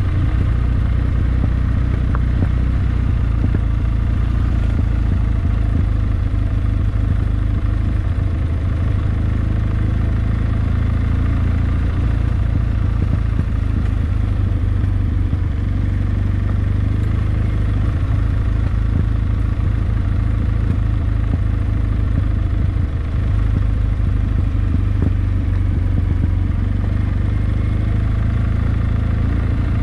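Kawasaki W650's air-cooled parallel-twin engine running steadily, a deep, even exhaust note with no clear revving up or down.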